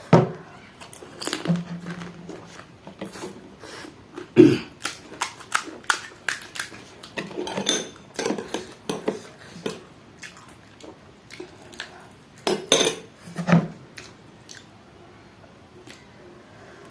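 Eating pani puri: irregular clinks and clatter of a plate and utensils, with crunching and chewing of the crisp puris. A few knocks stand out about four seconds in and near the end.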